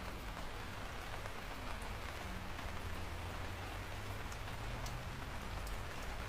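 Steady rain falling, a continuous even hiss with scattered sharp ticks of single drops and a low rumble underneath.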